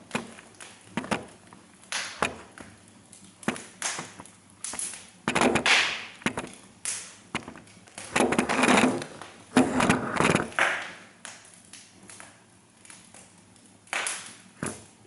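Campfire burning green, fresh wood, crackling and popping: sharp pops at irregular intervals, with a few longer, louder rushes of noise around the middle. The popping comes from the wood being still green.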